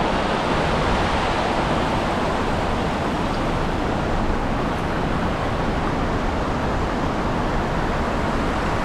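Steady roar of a waterfall: an even, constant rush of falling water.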